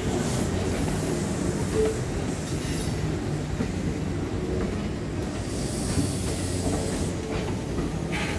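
Kintetsu electric train rolling slowly past: a steady low rumble of wheels on rail.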